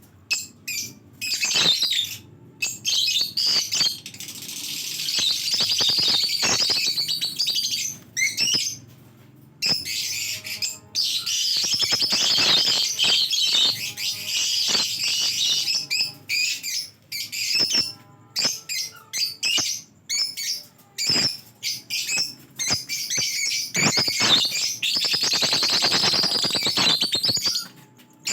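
A colony of lovebirds chattering with many shrill chirps at once, the din stopping and starting abruptly every few seconds.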